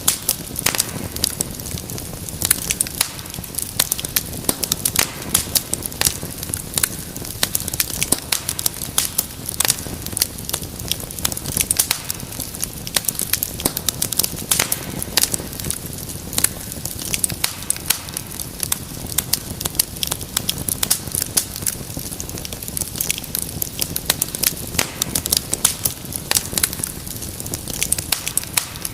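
Wood fire burning in a fireplace, crackling with a dense, irregular run of sharp pops and snaps over a steady low rumble of flame.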